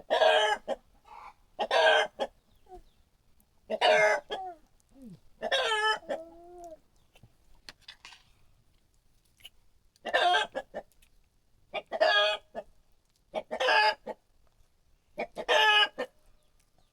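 Chickens calling: about eight short, loud calls roughly two seconds apart, with a pause in the middle and a fainter, lower wavering call in between.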